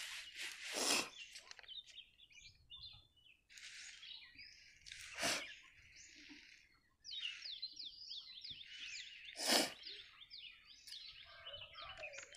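Small birds chirping, with a quick run of short chirps in the second half. Three brief rustles cut through, the loudest about two thirds of the way in.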